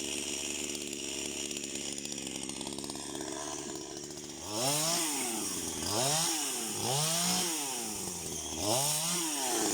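Gasoline chainsaw idling, then revved up four times in quick surges, its pitch rising and dropping back each time, as used for trimming tree branches.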